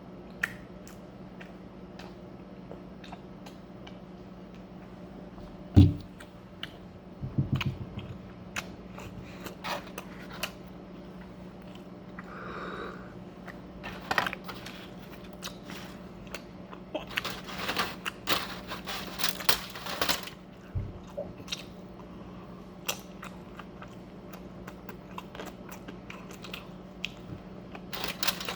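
Close-up chewing and crunching of food: scattered wet mouth clicks and crisp crunches, thickest in a run about two-thirds of the way through, with one sharp thump about six seconds in and a faint steady hum underneath.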